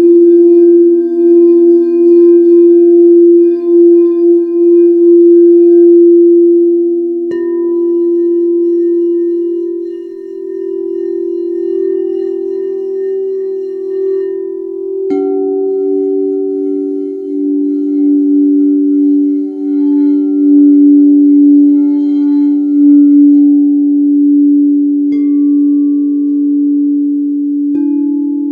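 Singing bowls struck in turn and left ringing, their long overlapping tones pulsing slowly as they beat against each other. A new bowl is struck four times, about 7, 15, 25 and 28 seconds in, each strike adding a fresh tone over the fading ones.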